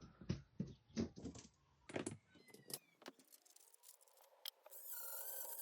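Small parts and tools clicking and tapping in a string of separate sharp clicks, then a steady hum sets in near the end.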